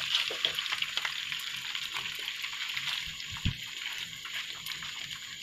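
Marinated chicken pieces sizzling and crackling in hot oil in a frying pan as a fresh batch is dropped in, a steady hiss with many small pops. A soft knock about three and a half seconds in.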